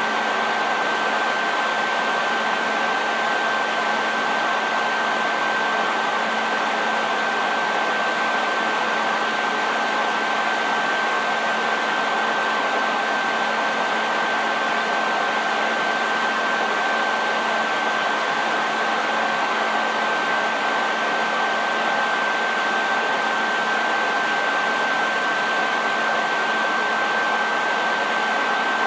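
Hair dryer running continuously: a steady rush of blown air with a constant high whine from its motor and a faint low hum beneath.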